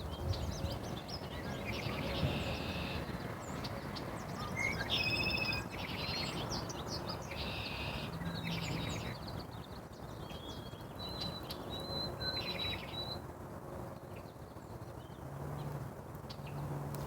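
Small birds chirping and calling in short trilled bursts, with a run of high repeated notes about two-thirds of the way through, over steady low background noise.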